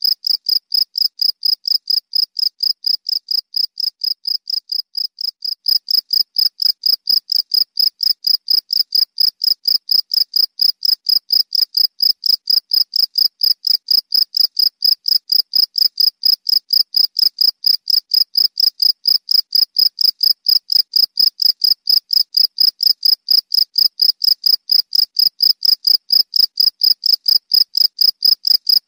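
Cricket chirping in a steady, even rhythm of about four high-pitched chirps a second. The level dips slightly and jumps back up about six seconds in.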